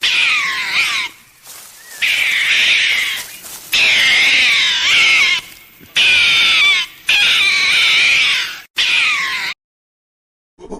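An animal's loud, wavering cries: about six long calls in quick succession, each a second or so, sliding up and down in pitch.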